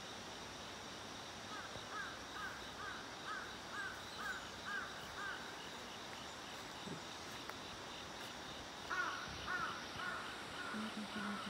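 A bird calling in two quick runs of about eight short repeated calls, the first from about a second and a half in and the second near the end. Insects keep up a faint, even chirping behind it.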